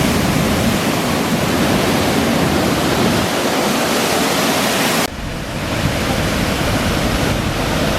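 Water rushing and pouring in a steady roar with no distinct tones, cut and resumed slightly quieter about five seconds in.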